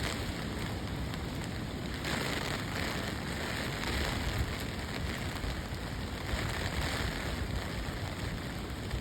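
Heavy storm rain pouring down in a steady hiss, with strong wind rumbling across the microphone.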